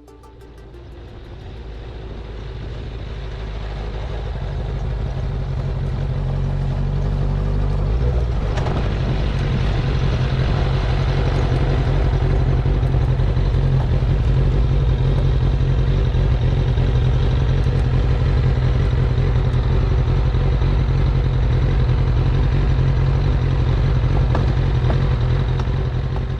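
Kawasaki ZZR600 sport motorcycle engine running steadily, fading in over the first several seconds.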